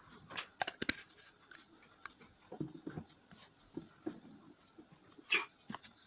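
Slime ingredients being mixed by hand in a container: irregular sharp clicks and short soft, sticky squelches at uneven intervals.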